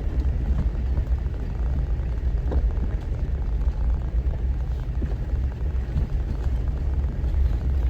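Off-road vehicle engine running at low speed, a steady low rumble.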